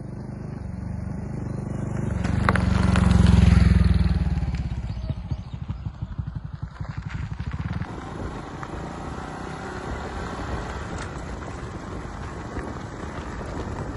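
Honda Super Cub C125's air-cooled single-cylinder engine through a Kitaco Classic Down aftermarket muffler. It swells to its loudest about three to four seconds in, falls back with a distinct pulsing beat, then runs steadily.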